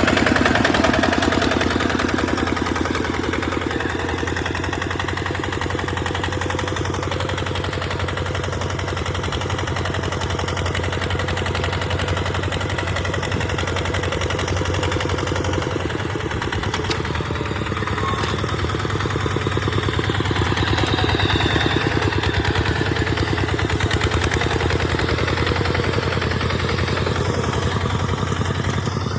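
Tractor engine running steadily while pulling a plough through sandy ground, with a continuous low hum and fast, even firing pulses.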